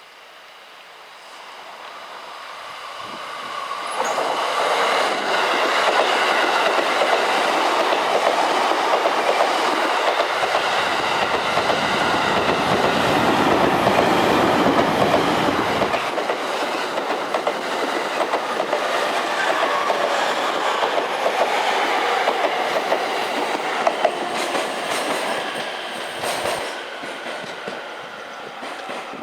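E233-series electric commuter train passing, its wheels clattering over the rail joints and the points. The sound builds over the first few seconds, stays loud for about twenty seconds, then falls away near the end.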